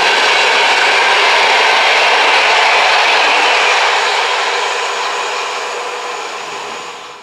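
Passenger coaches of an electric-hauled EuroCity train passing by on the rails with a steady rushing rolling noise. The noise fades away from about four seconds in as the tail of the train moves off, then drops out fast at the end.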